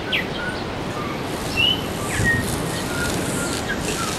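Small birds chirping: scattered short whistled notes and quick pitch glides, over a steady low rushing background.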